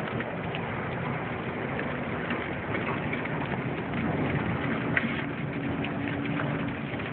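Steady rain falling, a continuous hiss with scattered drops ticking on the vehicle.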